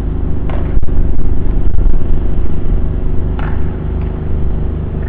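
A vehicle engine idling close by, a steady low drone, with two brief higher noises cutting in, about half a second and three and a half seconds in.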